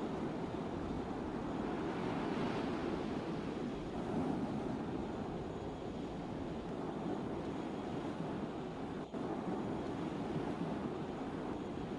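Steady rushing noise of sea water and wind around a cargo ship, strongest low down, with no distinct tones. The sound dips out briefly about nine seconds in.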